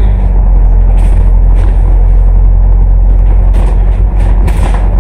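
Cummins ISL8.9 diesel engine of an ADL Enviro500 MMC double-decker bus running steadily and loudly, with a few short hisses near the end.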